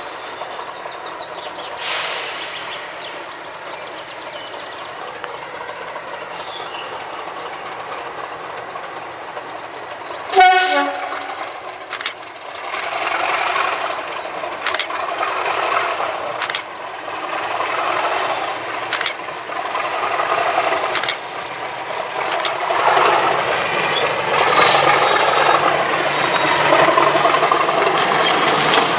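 Class 37 diesel locomotive D6732 working past with its English Electric V12 engine running. A short horn note that drops in pitch sounds about ten seconds in. After it, wheels click over rail joints every two seconds or so as the sound grows louder, with a thin, high wheel squeal near the end.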